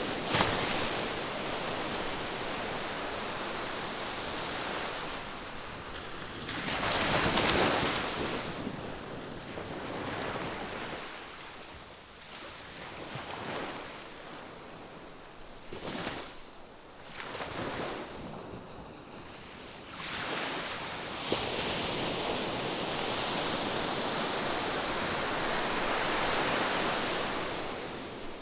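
Ocean surf washing onto the shore in an even hiss that swells and ebbs. One wave peaks about seven seconds in, and a longer surge builds and holds through the last third.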